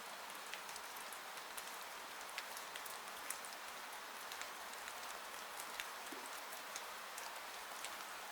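Steady rainfall: an even hiss of rain with many separate drops ticking sharply on a surface.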